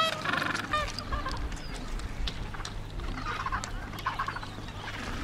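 Honking bird calls, strongest in the first second and fainter again a few seconds later, over a steady low hum and rumble.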